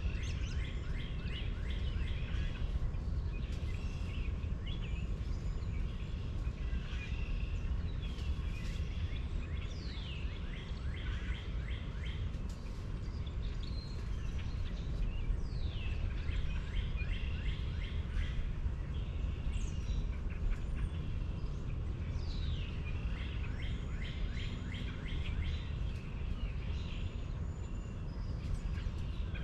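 Birds calling over a steady low rumble: high down-slurred calls every few seconds, each run into rapid chattering notes, with a faint steady hum underneath.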